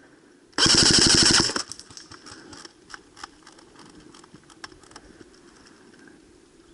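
Airsoft electric gun firing one rapid full-auto burst lasting about a second, then scattered single shots.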